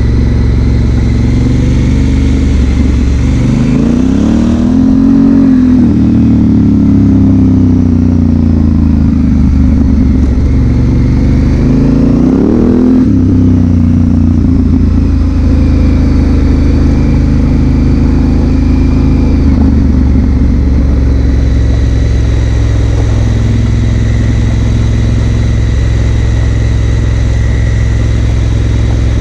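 2016 Honda Africa Twin CRF1000L's parallel-twin engine running under way. The revs rise and fall twice in the first half, then hold steady.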